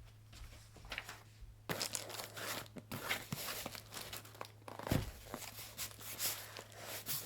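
Packing material being handled by hand: paper or plastic rustling, crinkling and tearing in irregular bursts that start about two seconds in, with a knock about five seconds in.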